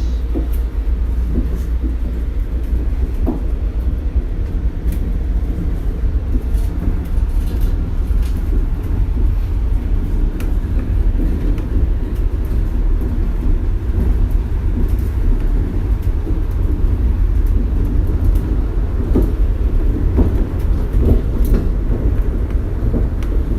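Shonan Monorail suspended rubber-tyred car running at speed, heard from inside the car: a steady, loud, deep rumble with scattered rattles and knocks from the rough ride.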